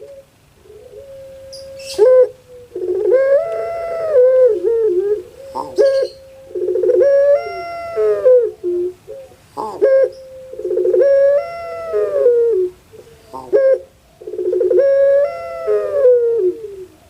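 Puter pelung dove cooing: four long calls about four seconds apart. Each starts with a rapid stutter, then swells up and falls away. Short sharp clicks fall between the calls.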